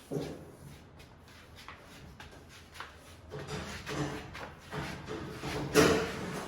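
A steel truck hood being handled while it is fitted: a knock at the start, then shuffling and metallic clatter, with a loud clank near the end.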